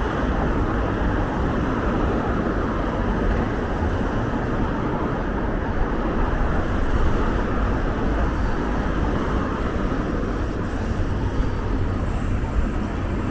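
Steady city street traffic noise, an even rush of passing cars with no single event standing out.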